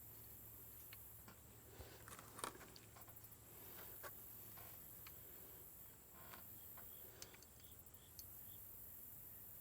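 Near silence broken by sparse faint clicks and taps of small screws and metal parts being handled and fitted during outboard ignition reassembly, with one louder click about two and a half seconds in.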